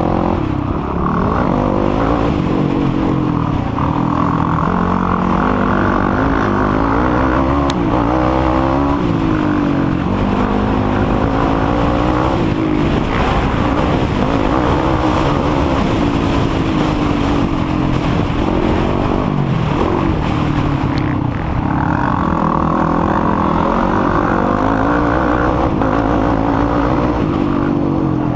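A racing quad's engine running hard on a motocross track, its pitch rising and dropping again and again every second or two as the throttle opens and closes through the turns and jumps.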